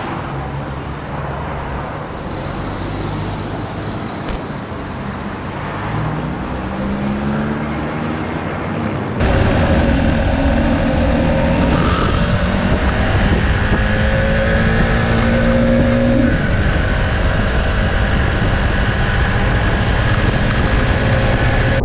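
KTM 390 Duke's single-cylinder engine running under way, its pitch climbing as the bike accelerates and dropping sharply about sixteen seconds in, with rushing air noise. About nine seconds in, the sound jumps suddenly louder and rougher.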